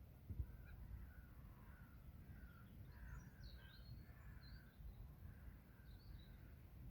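Faint outdoor bird calls: short, repeated calls with a few higher chirps about three to four seconds in, over a steady low rumble. A single short tap about half a second in.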